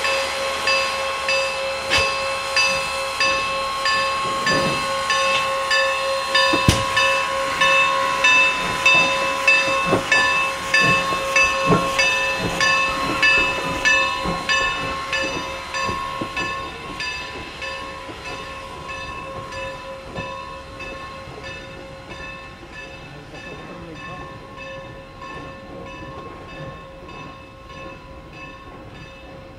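Heritage steam train running, with a regular beat about twice a second over steady tones, fading as it moves away.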